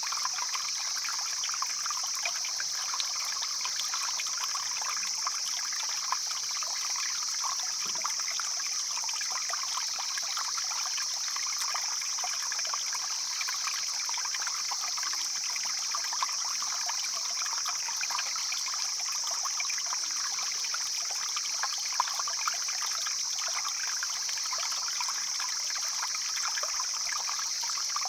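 Stream flowing steadily, a continuous babbling rush of water, with a steady high-pitched hiss running over it.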